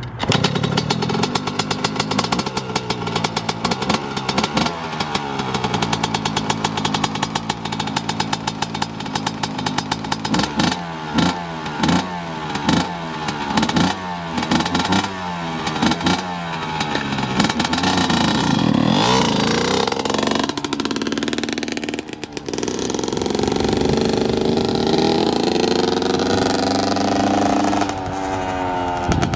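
Yamaha YZ125 single-cylinder two-stroke dirt bike engine being ridden, revving up and dropping back over and over, about once a second for a stretch, with a long rise and fall in pitch past the middle. It then holds a steadier, higher note before easing off near the end.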